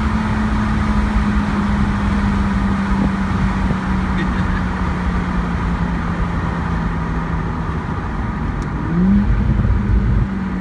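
2009 BMW 135i's N54 twin-turbo straight-six running through a Berk Racing exhaust, a steady drone whose pitch sinks slowly, then rises sharply for a moment about nine seconds in as it gets louder.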